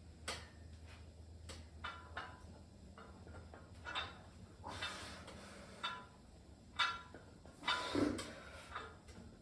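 Faint, scattered light knocks and rustles, a dozen or so short ones, the strongest a few seconds in and near the end.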